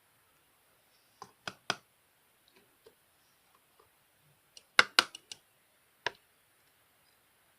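Slime being handled, giving sharp clicking pops: a few single clicks, then a quick run of about five about five seconds in, and one more shortly after.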